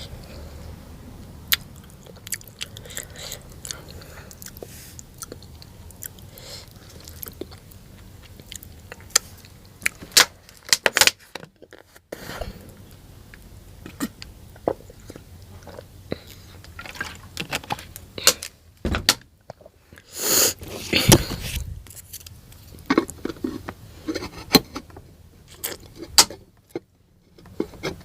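Close-up chewing and crunching of a person eating noodle soup with pickles: many sharp wet clicks and crunches with short pauses, and a longer noisy burst about twenty seconds in.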